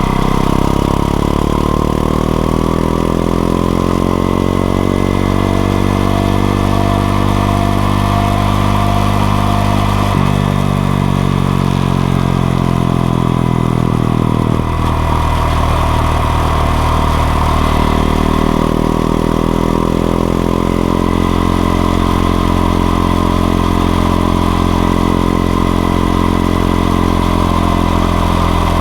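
Honda XRE 190's single-cylinder four-stroke engine running while the motorcycle is ridden. Its pitch rises and falls with the throttle and gear changes, with a brief break in the engine sound about halfway through, as at a gear shift.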